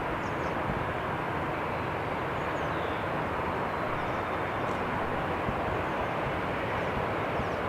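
Jet airliner engines running with a steady, even roar that holds constant throughout.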